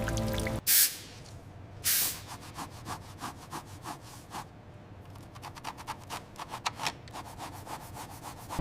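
Hand rubbing strokes on a part being cleaned. Two loud swipes come about a second apart near the start, then a run of short strokes that grows quicker, several a second.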